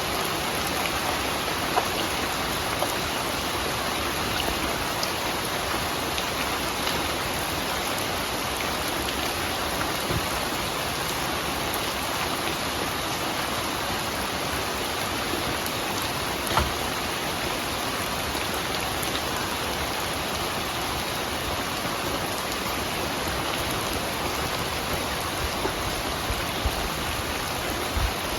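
Steady, heavy rain falling on surfaces, an even hiss with a few louder single drops ticking through it.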